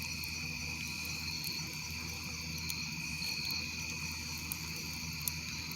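A night chorus of crickets: a steady, unbroken high trilling, with a few faint clicks.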